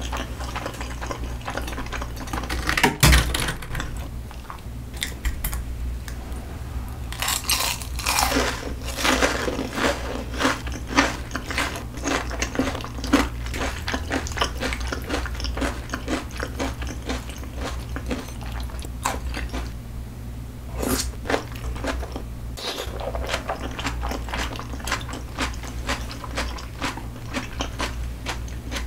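Close-miked eating sounds: chewing thick raw salmon and thin-sliced onion in cream sauce, with wet mouth sounds and crisp crunches, the crunching densest in the middle stretch. A single sharp knock sounds about three seconds in.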